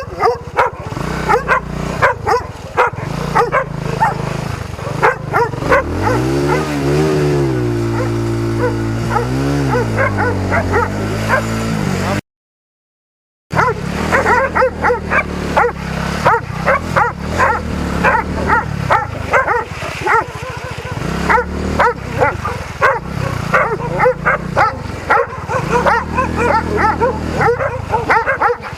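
Dogs barking rapidly and repeatedly over a motorcycle engine running, which revs up and down a few times in the first half. The sound drops out completely for about a second before the barking and engine resume.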